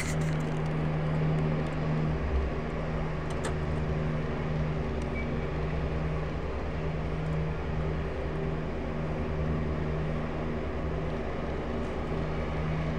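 Small engine of lawn-care power equipment running steadily: a droning hum that wavers and dips briefly a few times.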